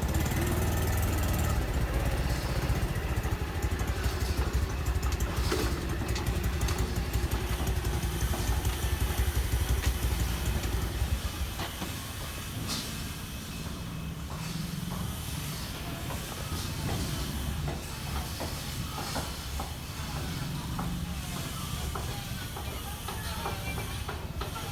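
Motorcycle engine running with a low rumble, then stopping about halfway through. After that, a quieter outdoor hiss remains with scattered light knocks.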